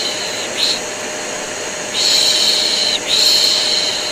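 Vacuum cleaner running steadily with a faint hum, under a repeated soothing 'shh' shushing sound used as white noise to settle a baby. There is a short shush about half a second in, then two long shushes of about a second each from about two seconds in.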